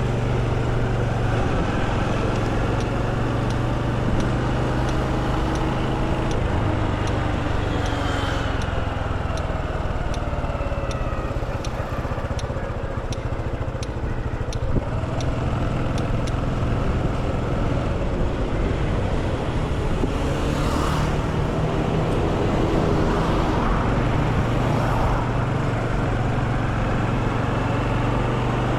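Motorcycle engine running in city traffic, its pitch rising and falling with the throttle, with other vehicles passing. A faint regular ticking runs through the first half.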